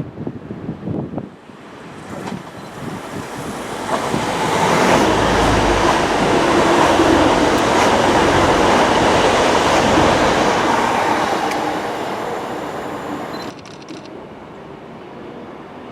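A train passing by on the rails. Its noise swells over a few seconds, holds loud in the middle, then eases off before cutting off suddenly near the end.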